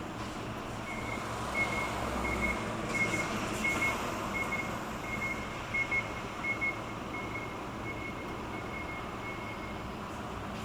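An electronic warning beeper gives a steady series of short high beeps, about three every two seconds, starting about a second in and stopping near the end. Underneath is a steady background rumble and hiss.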